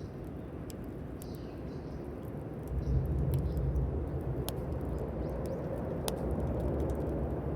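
Campfire crackling, with sharp pops now and then over a steady rushing noise. A low rumble comes in about three seconds in and stays.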